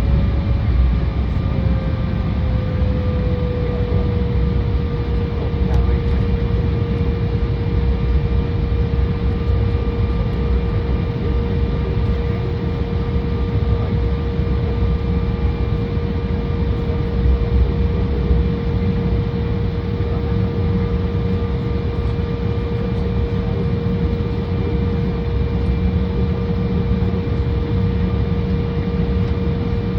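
Embraer 175 jet engines and cabin air heard from inside the cabin on the ground: a steady rumble and hiss with a whining tone that drops slightly in pitch about two to four seconds in, then holds steady.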